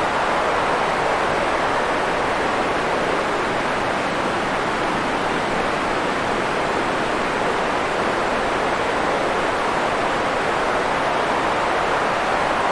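Steady white-noise track: an even, unbroken hiss centred in the middle range, with no breaks or separate events.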